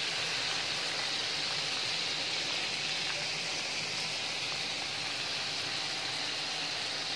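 Chapli kababs frying in shallow oil on a large flat pan: a steady, even sizzle of hot oil under the meat patties.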